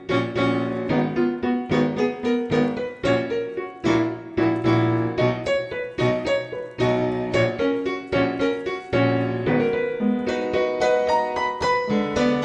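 Background piano music: a lively tune of quick notes.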